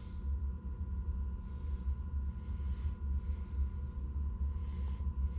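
Steady low drone of an Aquahot 250D diesel-fired hydronic heater's burner running, heard from inside the motorhome, with a faint steady whine above it.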